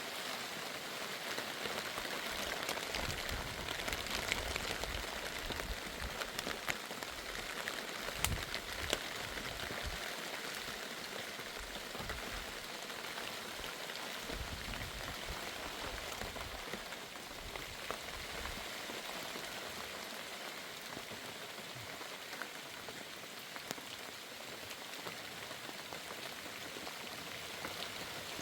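Steady rain falling, with sharp individual drop ticks scattered through it. It is a little heavier in the first half.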